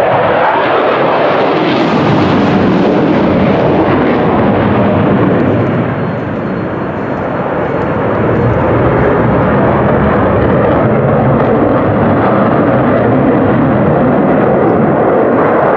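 Loud, steady jet noise from an F-35 fighter's afterburning turbofan engine as it flies overhead. The noise eases slightly about six seconds in, then builds again.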